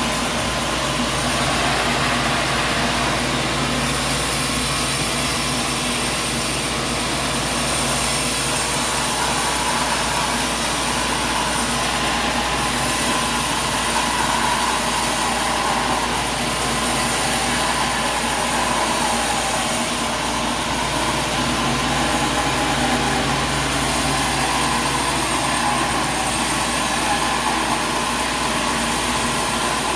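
Sawmill machinery running steadily: a continuous loud industrial drone with a low hum underneath, without distinct cuts or impacts.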